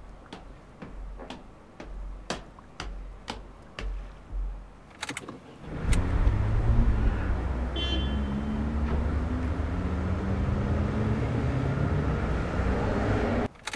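A series of soft thumps and clicks, then a car engine starts about six seconds in and runs steadily before cutting off suddenly near the end.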